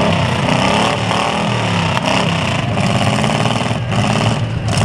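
Several demolition derby cars' engines revving together, their pitches rising and falling over one another in a loud, unbroken mix.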